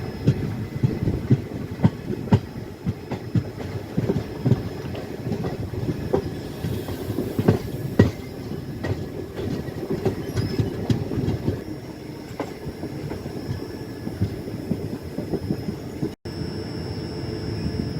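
Passenger train running along the track, its wheels clattering over rail joints in irregular sharp clicks over a steady rumble, with a faint high whine. The sound drops out for an instant near the end.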